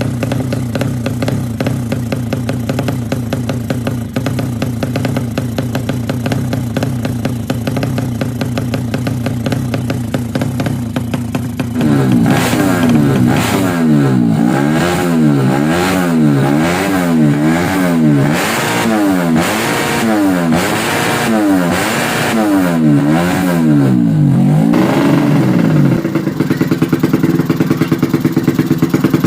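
Bored-up Yamaha Jupiter Z's single-cylinder four-stroke engine idling steadily, then from about the middle revved up and down about ten times in a regular rhythm, each blip rising and falling in pitch, before settling back to a steady idle near the end.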